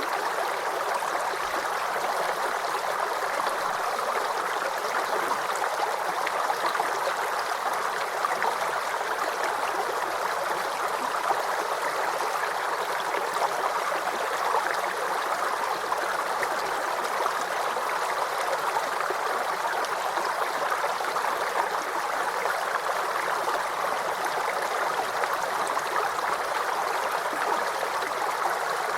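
Small brook babbling and gurgling over stones, a steady flowing sound with fine trickles.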